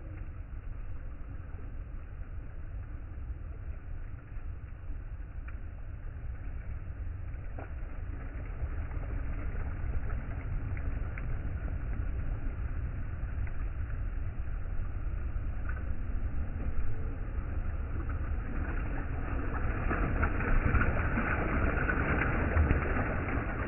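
Riverside ambience: river water flowing and lapping over a steady low rumble, the water noise growing louder over the last few seconds.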